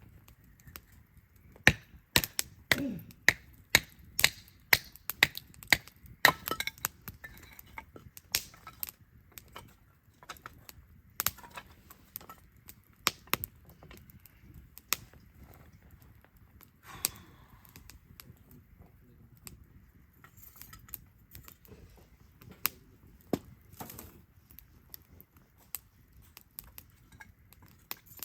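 Wood fire crackling and popping: sharp snaps come thick and fast for the first several seconds, then scattered and further apart.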